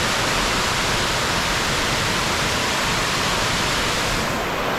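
Waterfall: a steady rush of falling, splashing water, slightly duller near the end.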